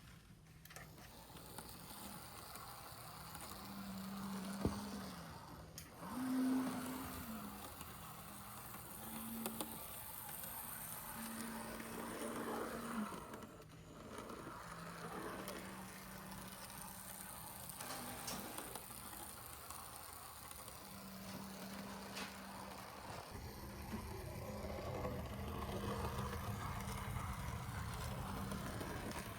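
Märklin Z scale V36 diesel locomotive model running on track: its small electric motor gives a low hum that comes and goes, rising briefly in pitch about six seconds in, with a few faint clicks.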